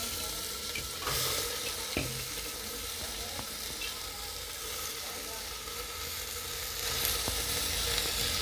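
Washed arhar (toor) dal and diced bottle gourd sizzling in hot oil in an aluminium pressure cooker. A steady hiss with a few faint clicks in the first seconds.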